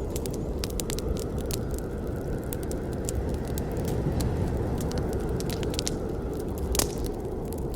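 Campfire burning: a steady low rush of flames with frequent sharp crackles and pops from the burning wood, one louder pop about seven seconds in.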